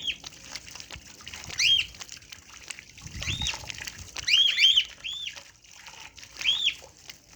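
Newly hatched chicks peeping: short, high, arching peeps coming in scattered bursts, with several close together around the middle. A brief low soft sound comes about three seconds in.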